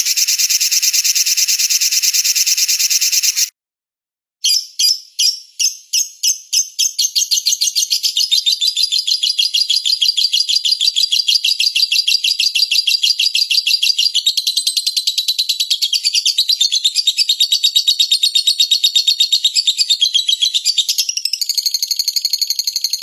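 Small songbird singing a rapid, high-pitched trill. It cuts off abruptly about three and a half seconds in, and after a second of silence it resumes as separate chirps that quickly speed up into a long unbroken trill, which shifts to a different pattern near the end.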